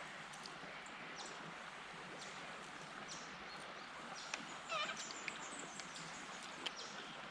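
Steady rush of shallow, running river water, with scattered small clicks and brief high bird chirps. About two thirds of the way in comes a short warbling bird call.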